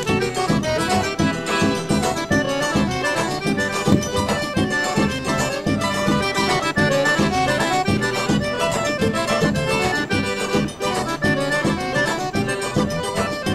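Traditional folk music led by an accordion, playing steadily with a lively rhythm.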